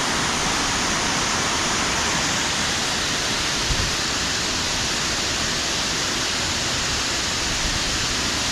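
A waterfall in full spate after heavy rain, its water sliding down a sloping rock wall into a splash pool, making a steady, unbroken rush.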